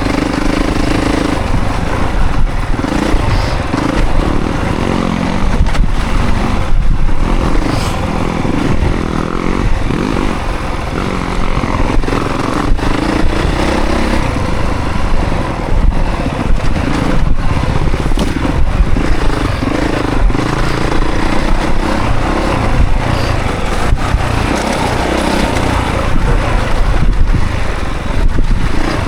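Honda CRF450 dirt bike's single-cylinder four-stroke engine revving up and down as it is ridden hard, with short breaks in the engine note as the throttle is rolled off and back on.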